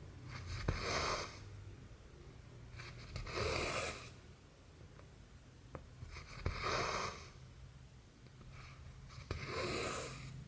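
Cotton embroidery thread being drawn through cross-stitch fabric by hand: four swishes about three seconds apart, with a few faint clicks of the needle between them, over a low steady hum.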